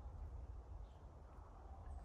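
Quiet woodland ambience: steady low wind rumble on the microphone, with a faint bird chirp about a second in.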